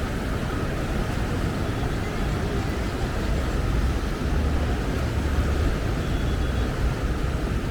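Beach ambience: a steady low rumble of surf and wind, swelling a little about four to six seconds in.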